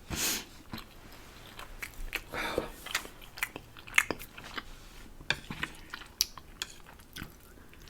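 Close-miked eating sounds of a person chewing spicy instant noodles: scattered soft wet clicks and smacks of the mouth at an irregular pace.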